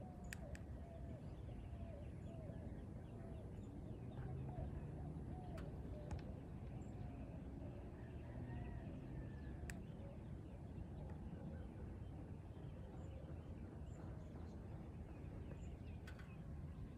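Faint outdoor ambience: a bird's short calls repeating about twice a second, thinning out later, over a low steady rumble, with a few faint ticks.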